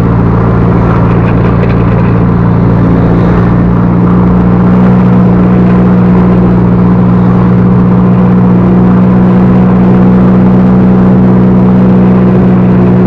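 Backhoe loader's diesel engine running steadily, a little louder from about four seconds in.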